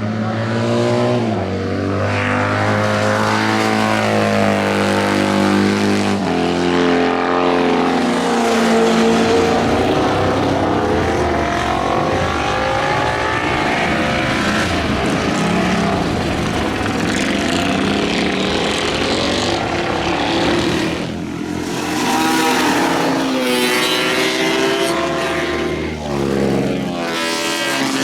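Motorcycles running on a race circuit: several engines at once, their pitch rising and falling as they pass, with stepwise jumps in pitch like gear changes.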